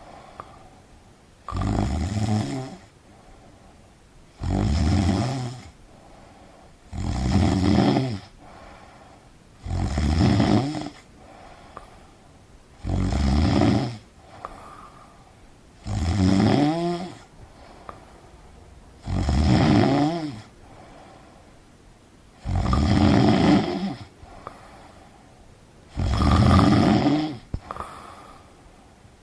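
A sleeping person snoring: nine rough snores, each about a second and a half long and about three seconds apart, with quiet breathing between them.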